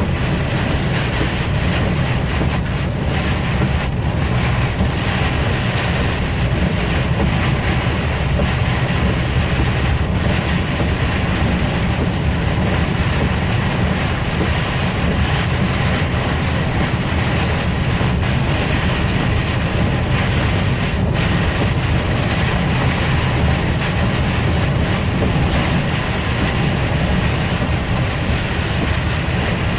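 Steady low rumble of a vehicle in motion, road and wind noise with an even hiss above it.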